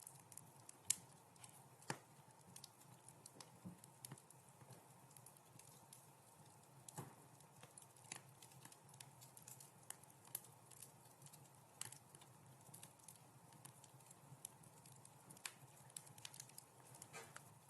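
Wood fire in a fireplace crackling: irregular sharp pops and snaps over a faint steady low rumble, the loudest pop about a second in.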